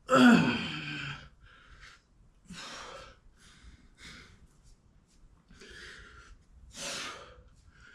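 A man breathing hard with effort during a set of Romanian deadlifts. It opens with a loud voiced exhale that falls in pitch, then comes a series of sharp breaths roughly every second.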